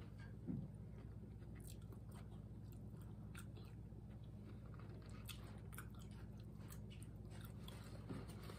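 Close-up mouth sounds of a person chewing food, with many faint small crunches and clicks, and a short low hum about half a second in.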